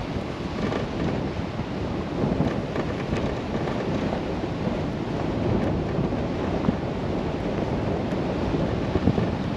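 Chevrolet Colorado ZR2 Bison pickup driving on a wet dirt road: a steady rumble of tyres, road noise and engine.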